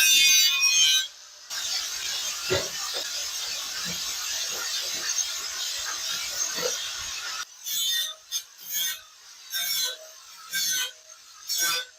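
Hand-tool work: a steady scraping rasp for about six seconds, then a run of separate short scraping strokes about one a second.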